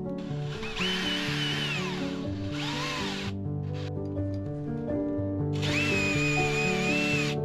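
Power drill running in whining bursts of about two to three seconds, stopping and starting again, over background music.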